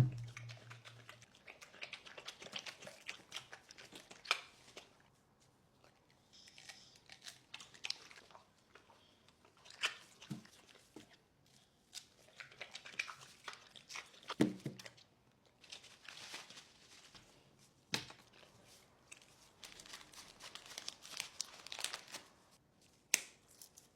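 A dog chewing and tearing at something that crinkles, in irregular bursts of crackling separated by short pauses.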